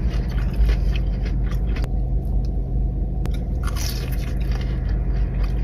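Close-up biting and chewing of crunchy food, with irregular crackling crunches throughout. A steady low rumble runs underneath.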